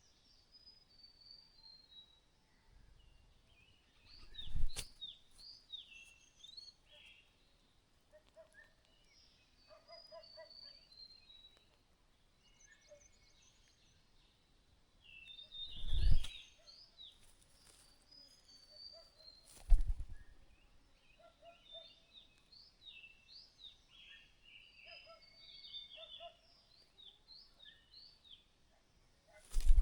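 Bird calling in short, quick high chirps, repeated in clusters throughout, with some lower notes mixed in. Four loud low thumps stand out: about four seconds in, at the midpoint, a few seconds later and at the very end.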